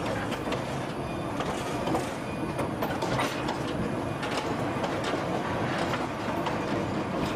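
Cumbres and Toltec narrow-gauge train rolling along the track: a steady rumble with irregular clicks and clanks from the wheels and cars.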